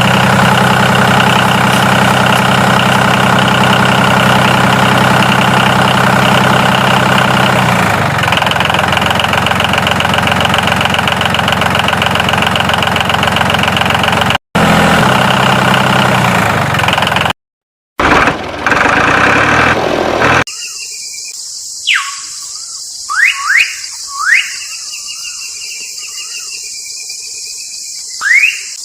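An engine running steadily at idle with a low, even hum. It cuts out abruptly twice, and about 20 seconds in it gives way to chirping crickets and bird calls.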